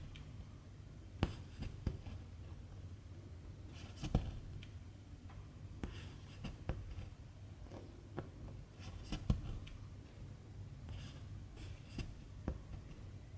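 Cross-stitching by hand: a needle pops through stiff 11-count cross-stitch fabric in irregular sharp clicks, and silk thread is drawn through with short rasping swishes. A steady low hum runs under it.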